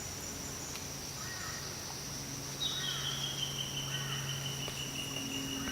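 Rainforest insects droning steadily at a high pitch, with a second, slightly lower insect drone starting about two and a half seconds in. A few faint bird calls sound behind them.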